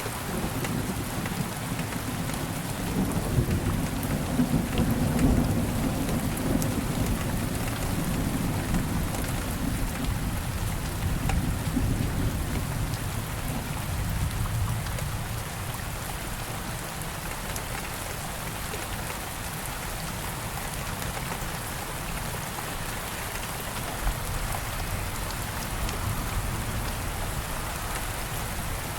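Steady rain falling, with a low rumble of thunder that swells a couple of seconds in and rolls on through the first half before fading away.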